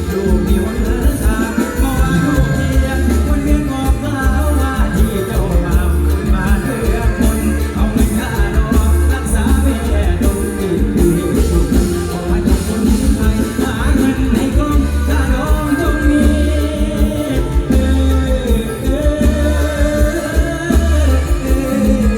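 Live mor lam band music with a singer over it, a heavy bass line and a steady, driving beat.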